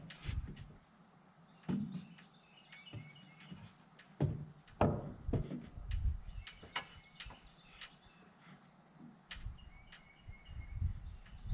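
Scattered light knocks and clunks, with a few faint bird chirps and low rumbles of wind on the microphone.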